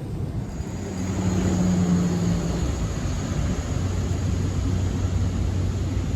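An engine running close by, a steady low hum with a faint high whine that grows louder about a second in and then holds.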